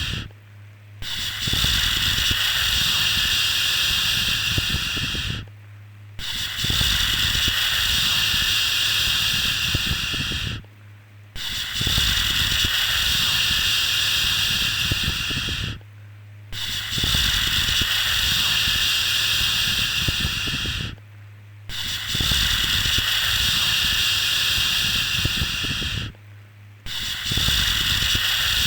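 Soothing 'shhh' shushing sound for lulling a baby to sleep: long, even shushes of about four and a half seconds each, broken by short pauses at a steady pace, six in all, over a faint low hum.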